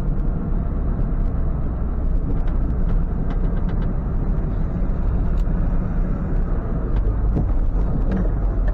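Ford F-550 tow truck's engine running steadily as the truck is driven and turned around at low speed.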